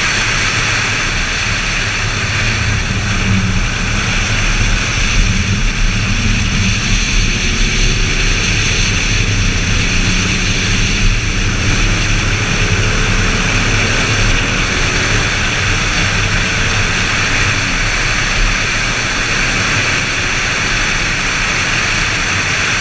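Steady rush of wind and road noise on a GoPro riding on a BMW Z4 M Roadster at track speed, with the car's S54 straight-six engine underneath it, its pitch rising faintly about halfway through.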